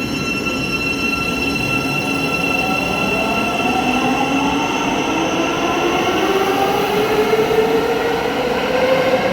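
Thameslink electric train accelerating away, its traction motors whining in several tones that rise steadily in pitch, with a steady high whine above them.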